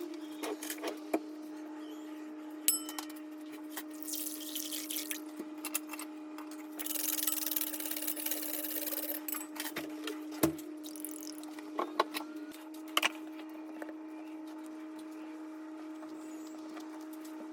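Kitchen work sounds. A steady electrical hum runs throughout, with scattered clinks and knocks of utensils and dishes. Twice there is a spell of hissing that fits water running from a tap.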